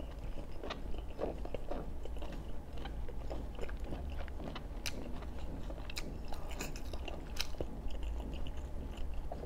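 A person chewing a mouthful of braised pork belly close to the microphone: an irregular run of small mouth clicks, with a few sharper clicks about five, six and seven and a half seconds in.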